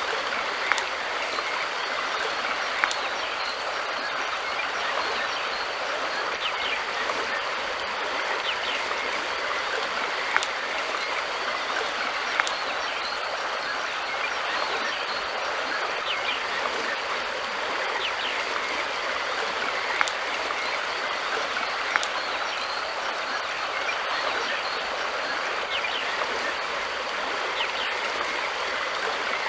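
River water flowing steadily over a shallow stretch, an even rushing babble with a few sharp little splash clicks scattered through it.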